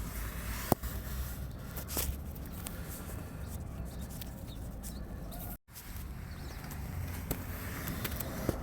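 Hand work at the engine: a few sharp clicks and light scraping over a low steady background hum, with a brief cut-out of all sound a little past halfway.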